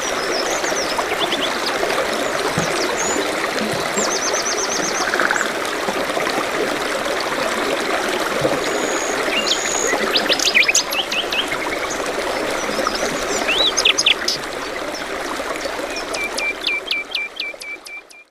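A small stream or brook trickling steadily, with songbirds chirping over it. Near the end a bird repeats a short call about eight times in quick succession before the sound fades out.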